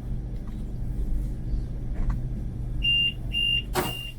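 Fuxing high-speed train carriage humming as the train slows to a stop; nearly three seconds in a high electronic beeper starts, about two beeps a second, the door warning signal at arrival. A short hiss about a second later.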